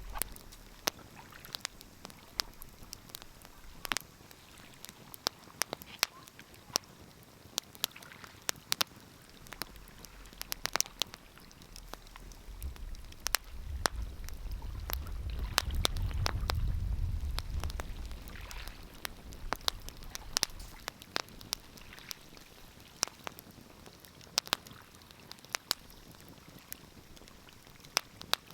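Wood fire crackling, with frequent sharp pops and snaps at irregular intervals. A low rumble swells and fades in the middle.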